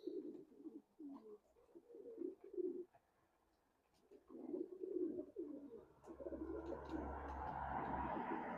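Racing pigeons cooing in low, throbbing phrases, pausing briefly about three seconds in. From about six seconds a steady rushing noise with a low rumble rises under the cooing.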